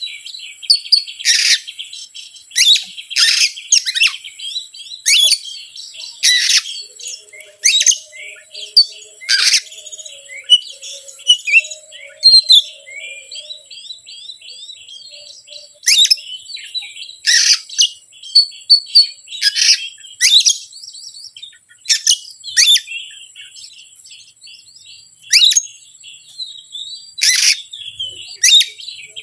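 Oriental magpie-robin (kacer) song, played as an agitating lure call: loud, sharp, high notes every second or two with quieter fast chattering in between. A few seconds in the middle hold only the chattering.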